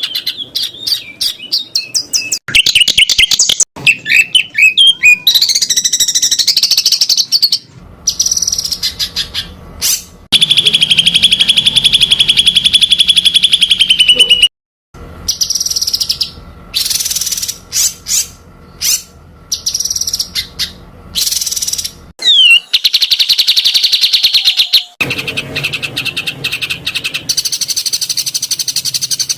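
Songbird song for masteran training: fast, tightly packed runs of repeated high notes ('tembakan rapat'). It comes in spliced segments that cut off and change abruptly several times.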